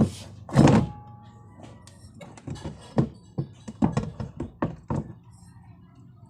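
A loud thump, then a run of irregular sharp knocks and taps, over a low steady hum; it goes quieter for the last second or so.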